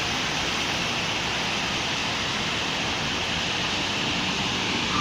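Steady rain falling on a city street, an even hiss with no single car passing clearly.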